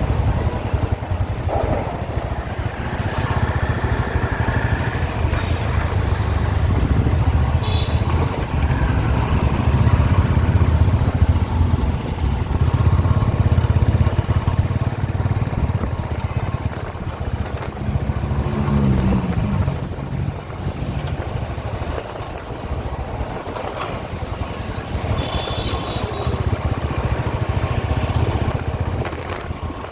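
Motorcycle riding through city traffic: a steady engine and road rumble with heavy low wind noise on the microphone. A few brief pitched sounds from passing traffic stand out now and then.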